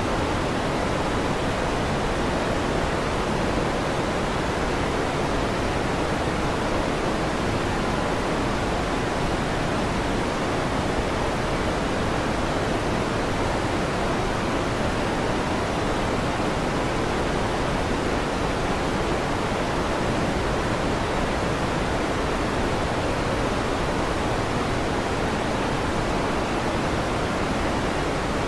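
Steady rushing noise of an electric fan, unchanging throughout, with its weight in the lower range.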